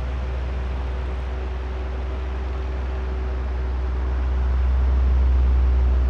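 Oscillating electric fan running: a steady rush of air over a low motor hum with a few faint steady tones. The loudness swells gently a little past the middle and eases near the end as the fan head turns toward and then away from the microphones.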